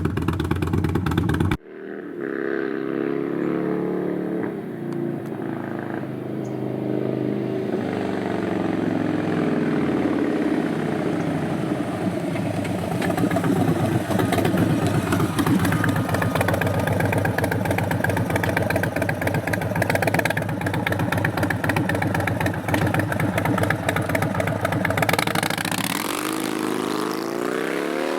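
A 2022 Indian Chief Dark Horse V-twin is heard through a Freedom Performance Combat 2-into-1 full exhaust with the performance baffle, which removes the catalytic converters. The exhaust tone is very, very deep. A steady engine note cuts off abruptly about a second and a half in; the engine then runs with its speed rising and falling, and climbs steadily under throttle near the end.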